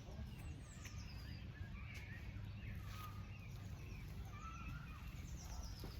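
Birds chirping, with short falling trills here and there, over a low outdoor rumble.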